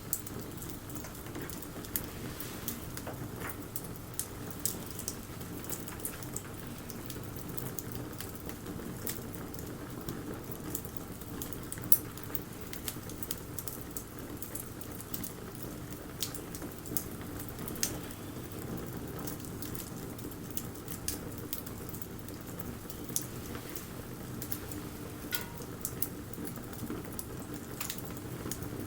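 Wood fire crackling: a steady low rustle of flames with scattered sharp pops and snaps, the loudest about twelve seconds in.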